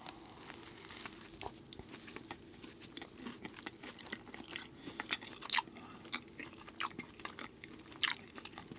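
Close-miked chewing of an Impossible Burger: irregular soft crunches and wet mouth clicks.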